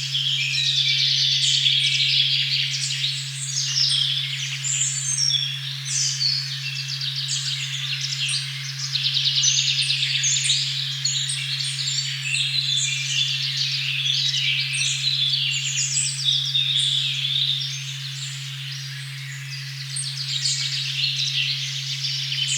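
A steady, unchanging 136.1 Hz sine tone, the 'OM' frequency, held under a dense chorus of many songbirds chirping and trilling in a forest.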